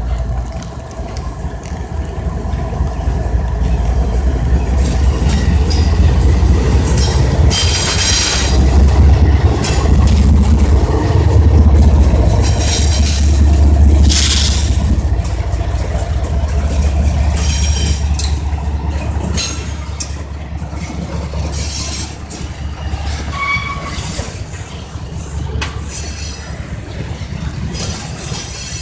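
Intermodal freight train rolling past, a continuous heavy low rumble with repeated high-pitched wheel squeals coming and going. It is loudest through the middle, then eases off somewhat in the later part.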